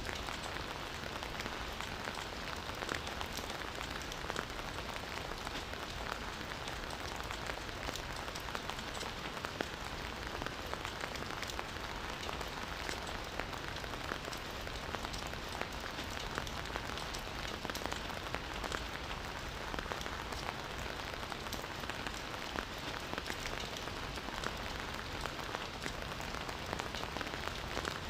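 Steady rain falling and pattering on surfaces, a constant hiss with many small drop ticks.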